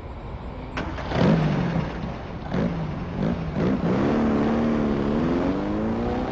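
Car engine sound effect: a low running rumble, a click just under a second in, then the engine revs up, its pitch rising and dropping several times before a longer, slowly climbing stretch as the car accelerates away.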